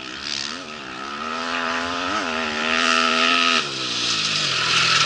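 Rally motorcycle engine at high revs, held high for a few seconds with two quick throttle blips, then falling in pitch as the bike passes by.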